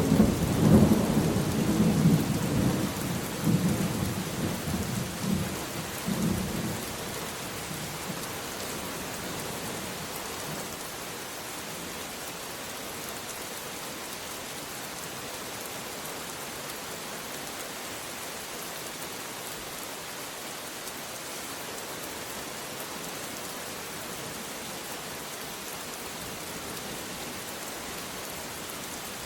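Heavy rain falling steadily, with a roll of thunder that rumbles loudly at the start and fades away over the first six seconds or so, leaving only the even hiss of rain.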